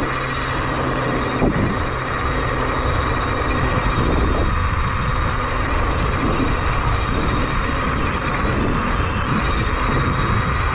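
Fat-tire e-bike with a Bafang BBS-HD mid-drive motor cruising on the road: a steady motor whine over a low rumble of wind and tyre noise.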